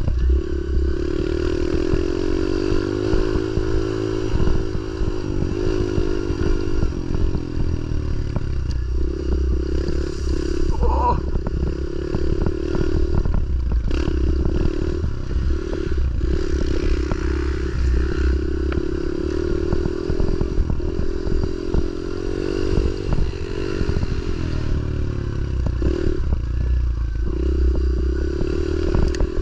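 Pit bike engine being ridden hard, its pitch rising and falling over and over as the throttle is opened and closed, with short drops every few seconds.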